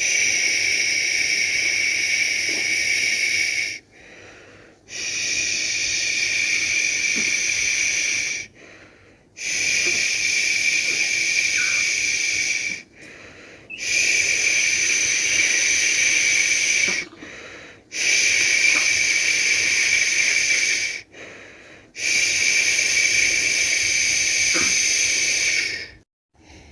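A person shushing a baby to sleep: six long "shhh" sounds of three to four seconds each, with a short pause for breath between them.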